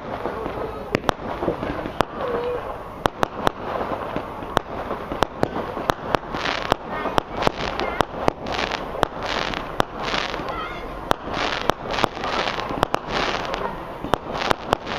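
Small low-level firework cake firing, heard from a distance: sharp bangs at uneven intervals, and from about six seconds in a run of hissing shots, about two a second.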